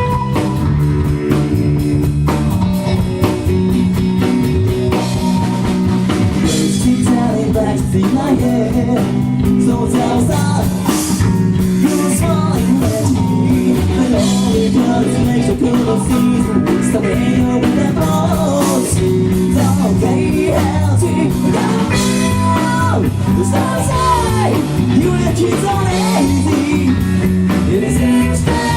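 Rock band playing live: guitar and drum kit with a singer.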